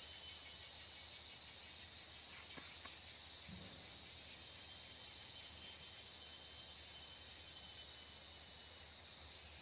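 An insect calling: a high, even buzz repeated in half-second pulses about once a second, over a faint steady low hum.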